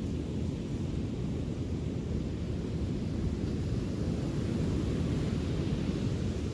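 Steady low rumble of wind buffeting the microphone, with a fainter hiss above it that swells a little near the end.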